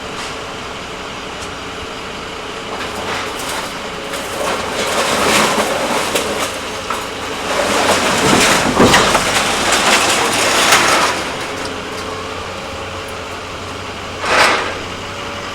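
Hydraulic scrap-metal crusher blade coming down and biting into metal: grinding, screeching metal that builds for several seconds and is loudest in the middle, with a short sharp crack near the end. A steady idling engine runs under it.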